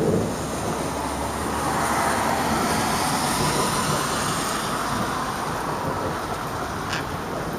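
Steady rain falling, with a long swelling rush that builds to a peak about three seconds in and then fades.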